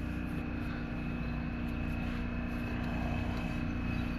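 Steady mechanical hum with a faint high whine above it, running evenly throughout.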